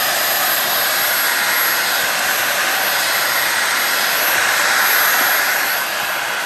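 Dyson V8 cordless stick vacuum running steadily with very strong suction: a loud rush of air with a thin high whine over it, easing slightly near the end.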